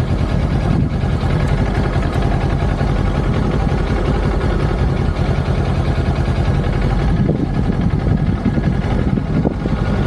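Kawasaki Ninja 500 motorcycle's parallel-twin engine running steadily, with no clear revving.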